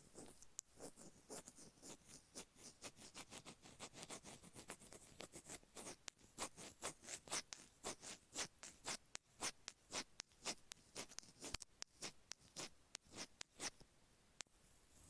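Stainless steel ear pick scratching along the ridged grooves of an iPhone earphone microphone in quick short strokes, about three a second, a rough gritty scraping that pauses near the end.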